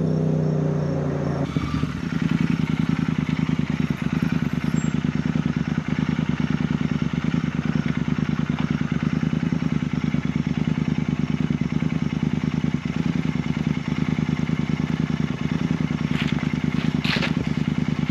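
Royal Enfield Continental GT 650's 648 cc parallel-twin engine running through Scorpion exhausts with the dB killers removed. The revs fall away in the first second or two, then it settles to a steady, evenly pulsing idle. There are a few brief clicks near the end.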